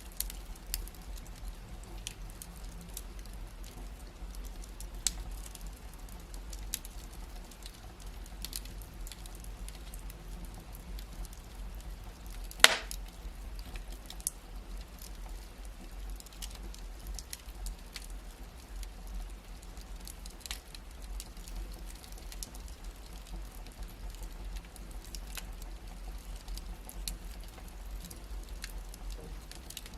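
Wood fire crackling in a fireplace: scattered small pops and snaps over a low steady rumble, with one loud pop a little before halfway.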